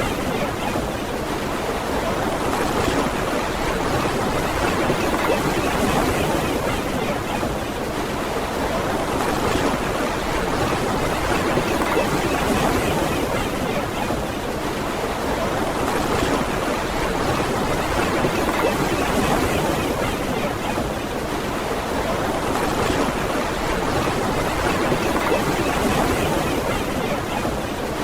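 Ocean surf on a beach: a continuous wash of breaking waves, swelling and easing every several seconds.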